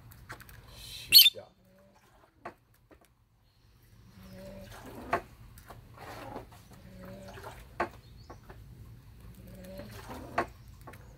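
A short sharp burst about a second in, then a near-silent pause. From about four seconds in, faint low bird calls repeat every second or so, with a few sharp taps.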